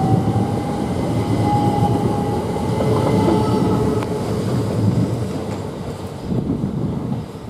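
Southeastern Class 375 Electrostar electric multiple unit pulling out and running past. Its wheels rumble on the rails under a steady whine, with a few clicks, and the sound eases away near the end.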